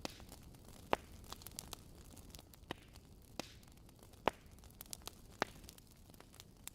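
Wood fire crackling in a fireplace: irregular sharp pops and snaps over a low steady hiss, with a few louder pops, about a second in and again past the middle.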